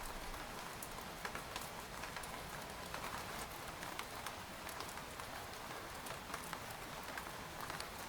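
Rain falling on a tent: a steady patter with many separate drops tapping on the fabric at irregular moments.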